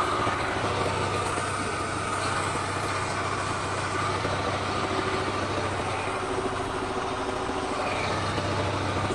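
Rebuilt Caterpillar C7 inline-six diesel engine idling steadily on a test run, with a constant low hum.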